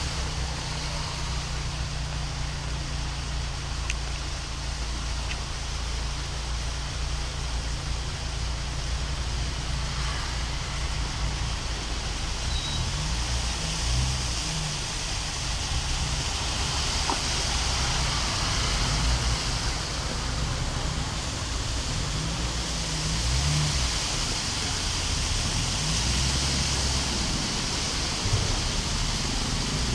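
Heavy rain and floodwater running down a street: a steady hiss with a low, uneven rumble underneath.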